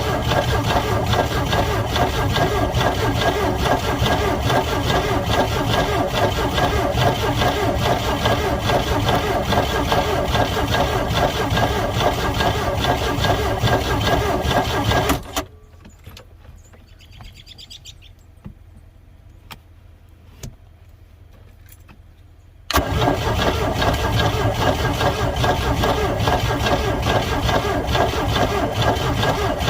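Boat engine cranked over by its starter with starting fluid sprayed into the carburetor, turning over without catching. The cranking runs steadily for about fifteen seconds, stops abruptly, and after a pause of about seven seconds starts again.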